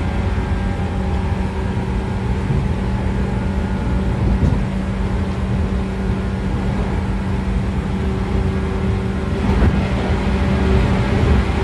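Interior running sound of a JR 113 series electric train's motor car at steady speed, with the whine of its MT54 DC series-wound traction motors and gears holding a steady pitch over wheel and bogie rumble. A louder rushing swell builds about ten seconds in.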